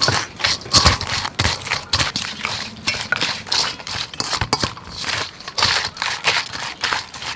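Rapid, irregular clinks and scrapes of utensils against a dish, several a second, as ingredients are handled or mixed in a bowl.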